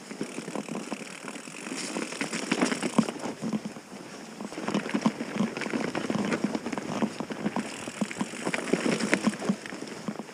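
Ibis Mojo HD3 mountain bike rolling over a rough woodland trail: tyre noise on dirt with dense, irregular rattles and knocks from the bike.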